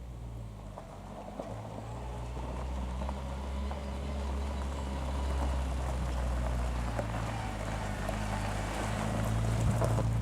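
A classic car's engine running at low revs with a low, steady note, growing louder as the car draws closer.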